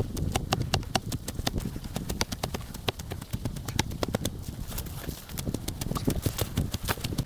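Wood campfire crackling: a dense, irregular run of sharp snaps and pops over a low rumble.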